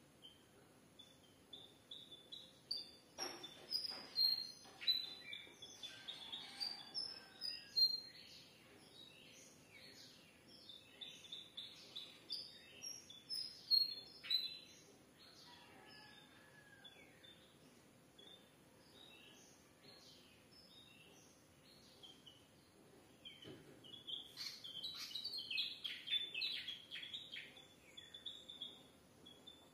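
Several small songbirds chirping and calling in quick, busy runs of short high notes, thinning out in the middle and picking up again near the end.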